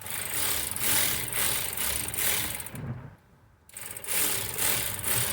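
Cordless power ratchet running in two short bursts, with a brief pause about three seconds in, as it drives down the 5/16 screw of a hose clamp on the top radiator hose.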